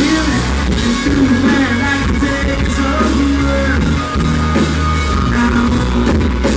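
Live country band playing a song at full volume, with drums, bass, guitar and a sung or melodic line over them, in a poor audience recording.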